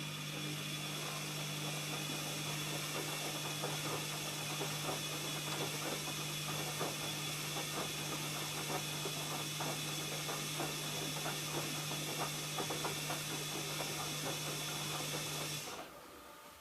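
ELIN A 100 E washing machine running: a steady electric hum with a hiss of water and many small irregular clicks and splashes, cutting off suddenly near the end.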